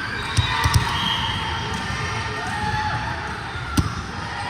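A volleyball being hit and bouncing on a gym court: a few sharp thumps about half a second in and again near the end, over the steady background of the hall.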